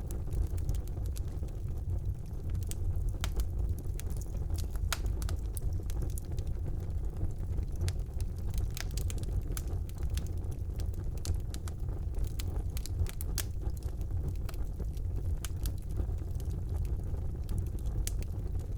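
Fire burning in a fireplace: a steady low rumble of the flames with many sharp crackles and pops.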